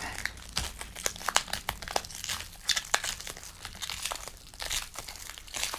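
Packing wrap being crinkled and torn open by hand, a dense run of irregular crackles and rustles.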